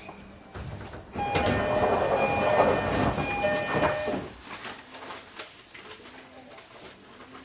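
Onboard sound of a JR Kyushu 305 series electric train. About a second in, a loud rush of noise with several steady high tones switching on and off rises over the running sound and lasts about three seconds, then fades back to a quieter rumble.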